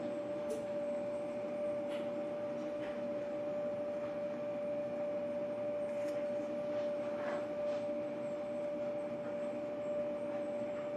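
Steady electrical hum, one even tone throughout, with a few faint light ticks and scrapes.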